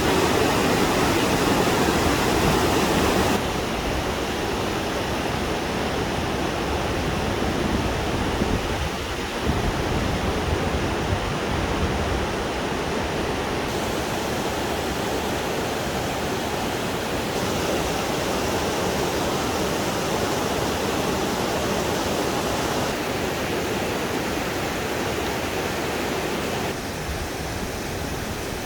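Steady rush of a flowing stream, water running over rocks. The level and tone shift suddenly a few times.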